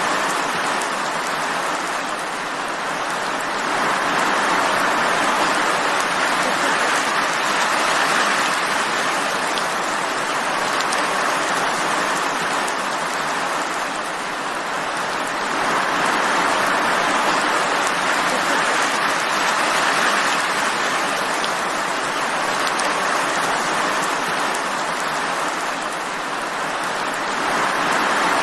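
Steady rain falling, a dense even hiss that swells a little and eases off again every ten seconds or so.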